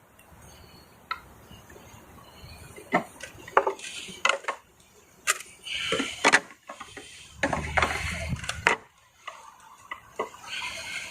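Irregular clicks, knocks and scraping rattles of hard parts being handled and fitted together, as in work on a pool pump's plumbing fittings.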